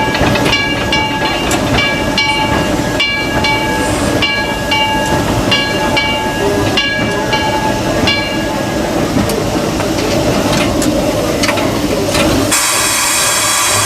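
Steam locomotive heard from the cab: its bell rings in a steady rhythm of about one stroke every three-quarters of a second over the running rumble of the engine, and stops about two-thirds of the way through. Near the end a loud hiss of steam starts.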